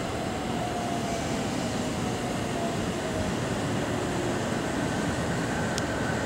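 JR Central 313 series electric multiple unit pulling into a station platform and slowing, over steady running noise. A faint whine falls gently in pitch through the first few seconds, and there is one short high tick near the end.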